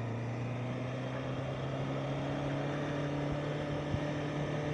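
Honda CBR650R's inline-four engine running while riding, its note rising slowly and steadily, over wind noise.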